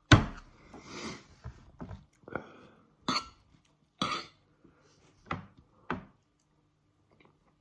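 A barbecue sauce bottle being handled and squeezed: a sharp knock at the start, then a series of short spluttering squirts and clicks over the food.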